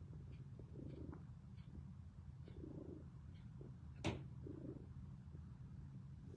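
Domestic cat purring steadily close up, the low rumble swelling with each breath about every two seconds. A single sharp click about four seconds in.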